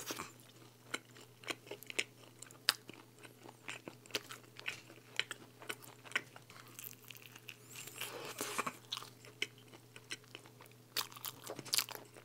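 A person chewing a mouthful of thin-crust pizza close to the microphone, with irregular crisp crunches and small mouth clicks.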